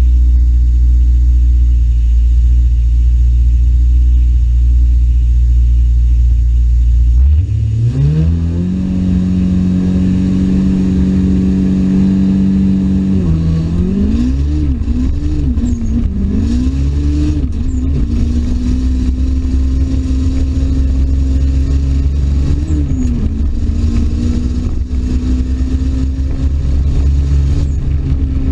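Toyota Starlet's 4E-FTE 1.3-litre turbocharged four-cylinder engine running. It idles steadily at first, is revved up about seven seconds in and held there, gets several quick throttle blips a few seconds later, then holds a steady raised speed with one more blip near the end.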